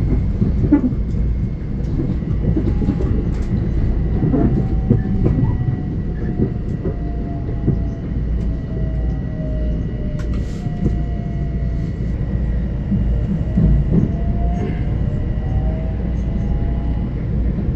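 Long Island Rail Road train running by: a steady heavy rumble with wheel clatter over the rail joints, and a faint whine that drops and then climbs again partway through.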